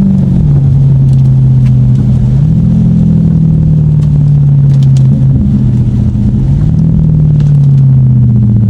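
Lexus car engine and exhaust under changing throttle: the note drops at the start, climbs again after about two seconds, and rises and falls twice more as the car is driven on and off the throttle.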